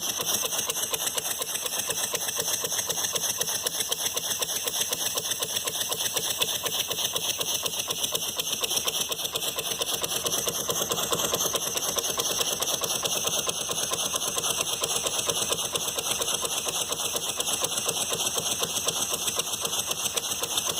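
Handmade model steam engine running steadily on steam from a pressure cooker: a rapid, even beat of exhaust strokes over a steady hiss.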